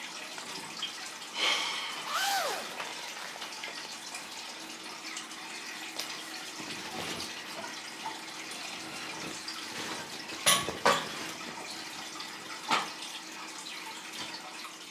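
Tap water running steadily into a kitchen sink, with a brief squeak about two seconds in and a few sharp knocks later on.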